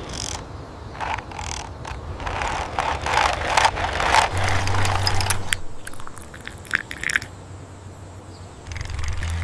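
A toy truck scraping and rattling across the floor in irregular bursts, with a few sharp clicks and a low steady hum that comes and goes.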